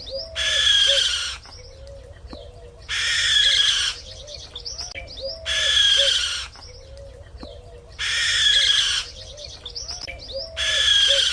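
Bird calls: a loud, harsh call about a second long repeats about every two and a half seconds, five times, over a steady run of short, soft, low cooing notes.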